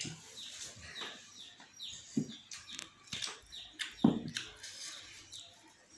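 A small bird chirping repeatedly, short falling chirps two or three a second. A short dull thump about four seconds in is the loudest sound.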